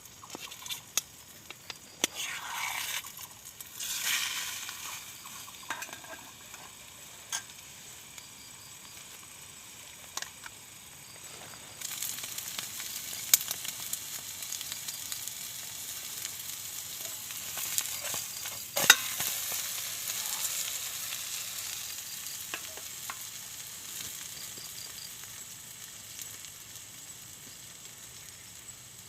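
Food frying and sizzling in a pan, with sharp clicks of utensils. The sizzle comes in steadily about twelve seconds in, swells with a loud clack near the middle, then fades.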